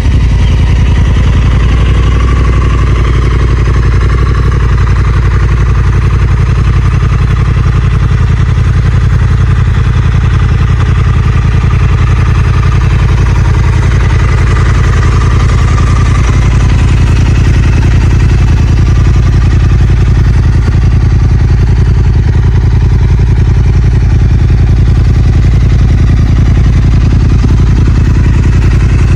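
Honda Africa Twin 1100's parallel-twin engine idling through an SC-Project aftermarket exhaust, loud and steady throughout.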